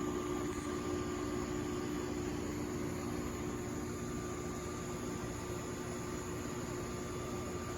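A steady mechanical hum with a constant low pitch and a faint higher whine over a hiss, unchanging throughout.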